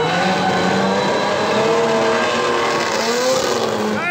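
Engines of several Chevrolet Opala cars revving together while drifting, their pitches wavering up and down over a steady rush of noise.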